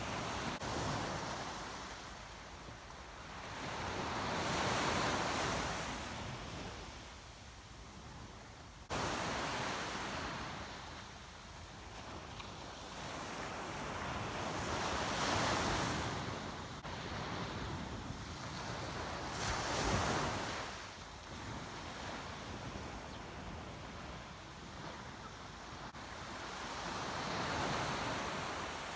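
Surf on a beach: waves breaking and washing up, swelling and fading every several seconds, with wind on the microphone.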